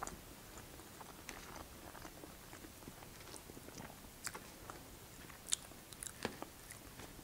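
Faint close-miked chewing and mouth sounds, with a few short sharp clicks and taps as a fork digs into fries in a foam takeout container.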